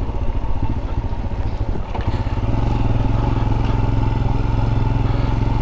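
Royal Enfield Scram 411's single-cylinder engine running at low road speed with a steady pulsing beat, picking up slightly about two seconds in.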